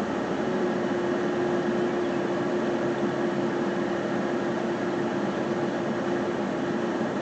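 Car driving, with steady road and engine noise and a steady hum that sets in about half a second in and fades out near the end.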